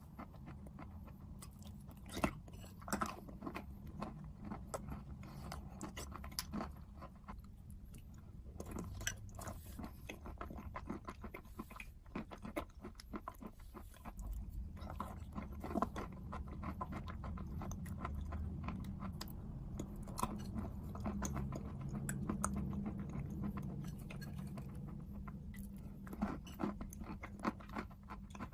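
A person biting and chewing something crunchy close to the microphone: many irregular small crunches and crackles, over a steady low hum.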